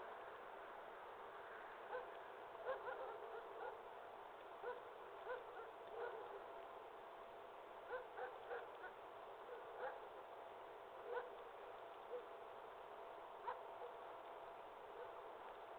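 Campfire burning with a steady hiss and irregular, sharp crackles and pops.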